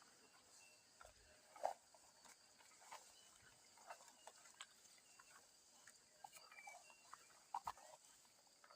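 Near silence outdoors, with faint scattered rustles and soft clicks.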